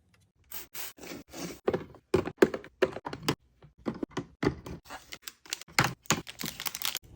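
Snack and fruit containers being handled and set into a mini fridge: a quick, irregular run of taps, clicks and knocks, about three or four a second.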